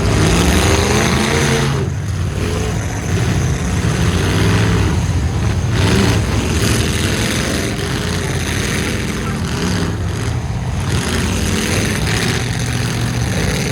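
Engines of full-size demolition derby trucks running and revving, loud and continuous, with the pitch wavering as they rev.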